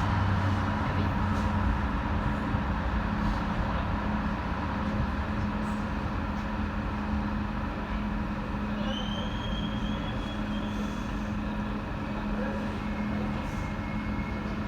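Steady noise inside a Docklands Light Railway train: a continuous low hum, joined by a thin high whine about nine seconds in and another steady high tone from about thirteen seconds.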